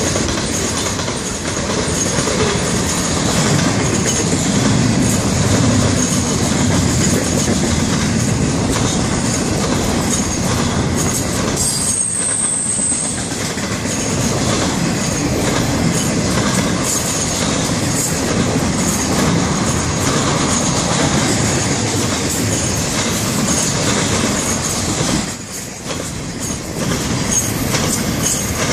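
Freight cars of a Florida East Coast Railway train rolling past: steel wheels running steadily on the rails, with a brief high-pitched squeal about twelve seconds in and a short drop in the noise near the end.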